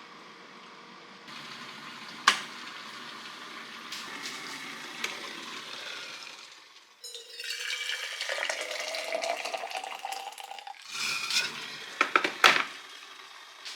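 Cooking sounds: a sharp clink, then sizzling in a hot pan that starts suddenly partway through and runs for about four seconds, followed by several quick clinks of a utensil against cookware.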